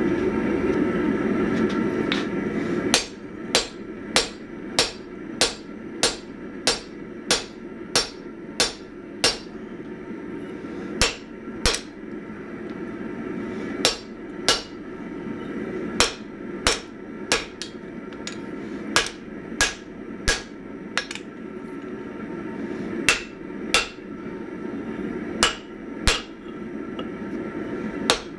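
Blacksmith's hand hammer striking a punch to open the eye in a hot steel ax head. Sharp metallic blows start about three seconds in and come at about two a second, in runs with short pauses, over a steady low hum.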